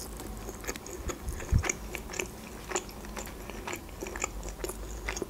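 Close-miked chewing of potato wedges: irregular soft wet clicks and mouth smacks, with one low thump about one and a half seconds in.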